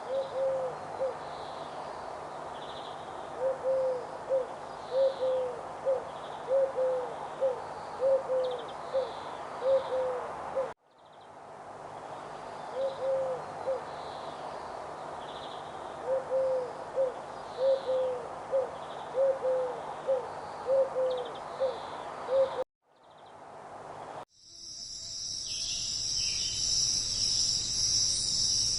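Forest ambience: an animal gives runs of short, low, repeated calls over a steady background hum, with faint high chirps. The same stretch plays twice, split by a brief dropout. About five seconds before the end it gives way to a loud, dense, high-pitched insect chorus.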